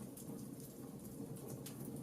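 Wood fire crackling in a fireplace: many small, sharp, irregular crackles over a steady low rush of the burning fire.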